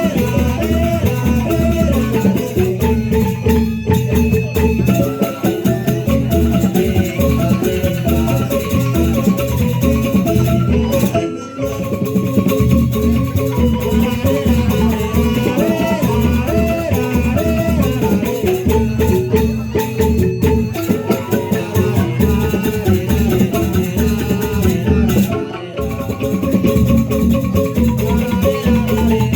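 Instrumental music in which tuned mallet percussion plays many short notes over a dense rhythmic beat with rattles. It drops out briefly twice, about a third of the way in and near the end.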